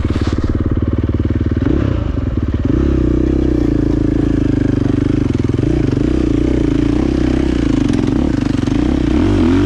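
Dirt bike engine running close up, pulsing at first and then picking up revs about three seconds in and holding them, with the pitch rising and falling near the end.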